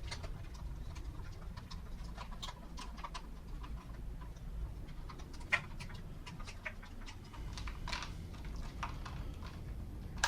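Light plastic clicks and taps as the air filter cover knobs on a string trimmer are unscrewed and the cover is handled, with one sharper click about halfway through.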